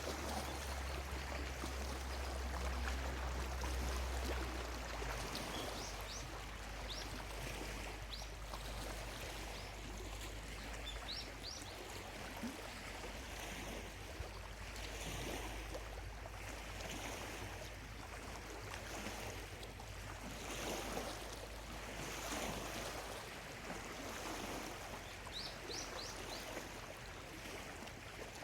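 Small lake waves lapping and washing on the shore in soft, repeated swells, with a bird's brief high chirps a few times.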